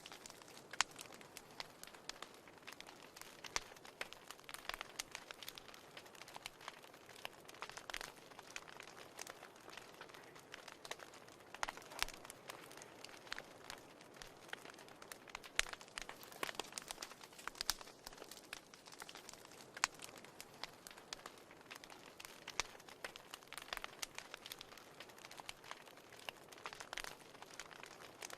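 Wood fire burning in a fireplace: a faint steady hiss with frequent irregular crackles and small pops.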